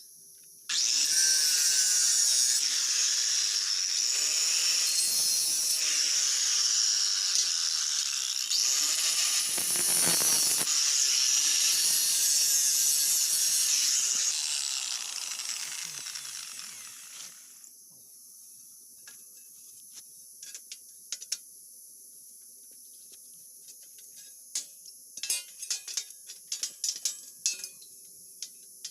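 Harsh, hissing metalworking noise from a tool on steel. It starts suddenly about a second in, runs about fifteen seconds and fades away, followed by scattered light clicks.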